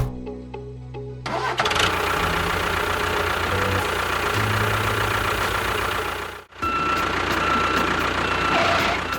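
An engine running with a steady, noisy drone that breaks off for a moment about six and a half seconds in, then picks up again; a short click comes at the very start.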